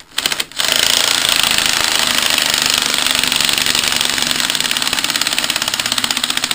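Cordless impact wrench hammering on the forcing bolt of a puller, trying to pull a part off a Kohler pulling engine. A brief burst, then a long unbroken run of rapid impacts.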